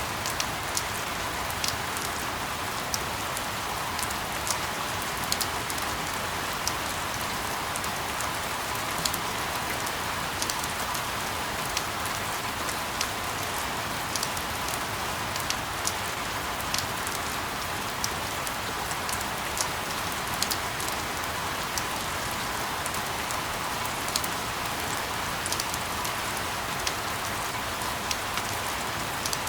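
Steady rain falling, an even hiss with many scattered sharp drop ticks, played as sleep white noise.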